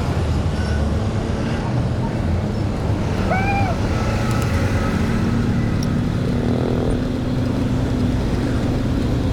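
Steady road traffic noise heard while riding: a low rumble with the hum of vehicle engines, and one short tone about three seconds in.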